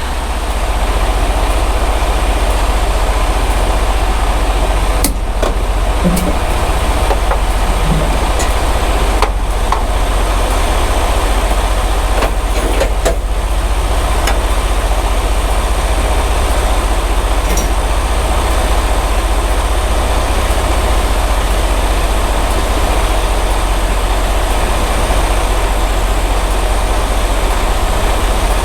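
Semi-truck's diesel engine running with a steady low rumble, with a few faint clicks now and then.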